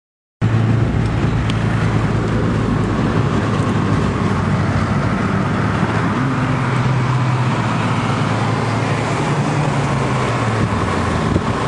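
Honda Civic's K-series four-cylinder engine running at a steady pitch with road and tyre noise, as from a car under way. It cuts in suddenly about half a second in.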